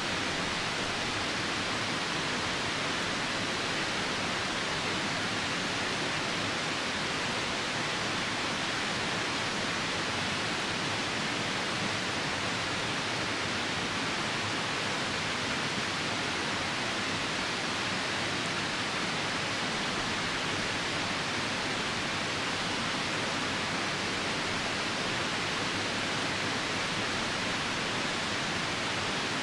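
Steady, unbroken rush of a nearby river, with rain falling.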